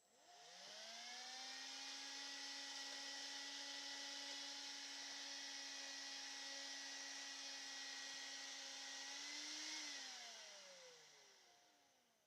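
Handheld cordless vacuum cleaner motor spinning up with a rising whine and rushing air. It runs steadily for about nine seconds, then is switched off and winds down, the whine falling away.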